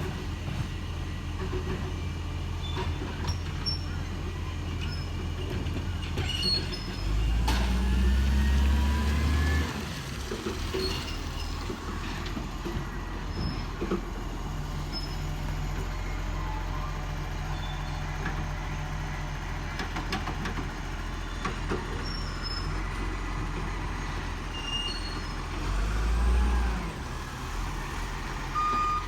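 Garbage truck's diesel engine idling steadily, revving up for a few seconds twice, about seven seconds in and again near the end, with scattered small clicks and squeaks.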